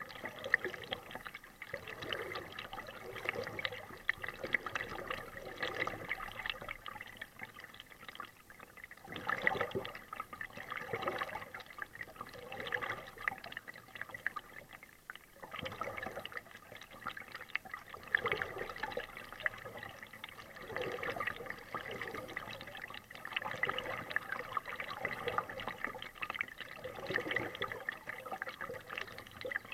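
Kayak paddle strokes: water splashing and dripping off the paddle blades in swells every two to three seconds.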